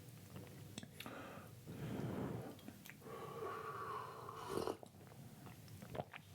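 A person sipping green tea close to the microphone, with breathing through the nose and soft mouth sounds between sips.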